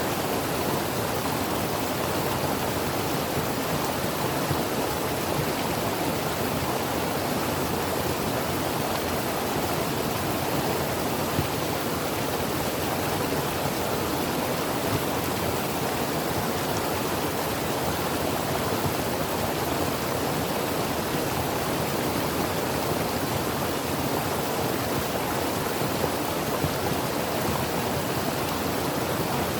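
Creek water flowing and splashing over rocks, a steady, even rushing.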